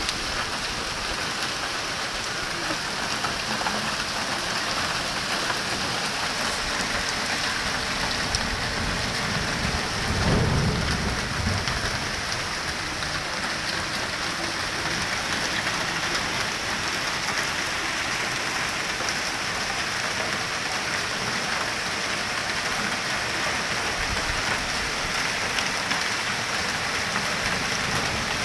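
Hail and heavy rain pelting down in a dense, steady hiss. A low rumble swells and fades about ten seconds in.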